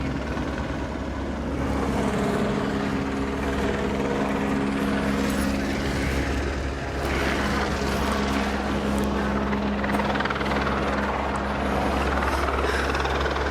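Police helicopter hovering overhead, its steady rotor and engine noise running without a break.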